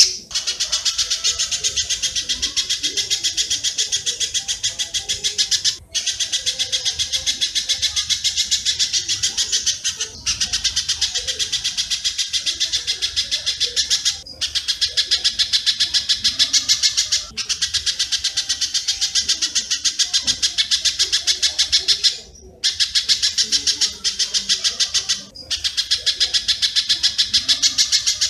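A bird-call masteran recording mixing spiderhunter and swiftlet calls: a rapid, even train of sharp high chips. It comes in runs of a few seconds, broken by brief gaps, the way a looped lure or training track repeats.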